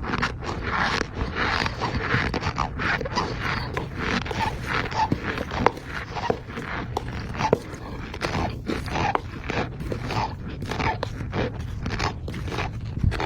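Rapid, irregular series of short squeaks and clicks, several a second, some with a brief whistly pitch.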